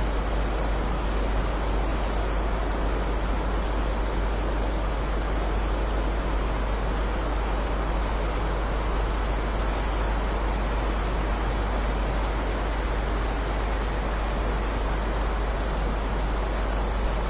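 Steady heavy rain: a dense, even hiss with a strong low rumble underneath, no single drops or thunder standing out.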